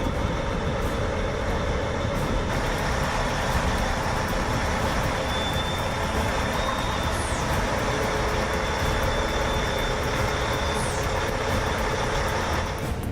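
Heavy truck engine running steadily, with two brief high squeaks partway through; the sound cuts off abruptly near the end.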